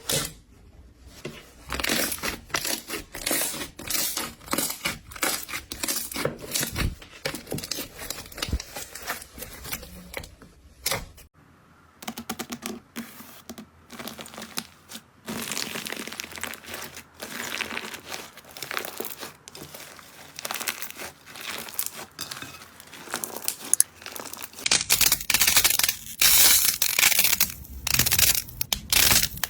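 Slime being squeezed, stretched and poked by hand, giving dense sticky crackling and popping. The sound changes abruptly about 11 seconds in and again near 25 seconds, as one slime gives way to another, the last louder and crisper.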